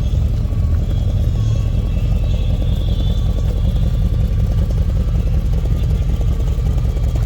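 A car engine running close by: a loud, steady low rumble with a fast, even pulse.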